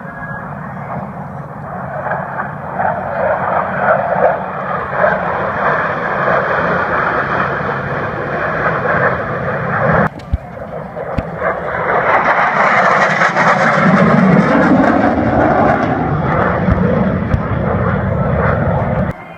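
Aircraft engine noise from a plane flying past: a steady roar with a short break about ten seconds in, then a louder, brighter pass in the second half that cuts off abruptly near the end.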